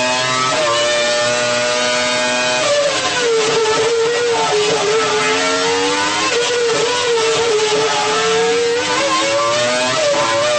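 Renault Formula 1 engine running at high revs: held steady at first, then dropping a little under three seconds in and wavering up and down as the revs are varied.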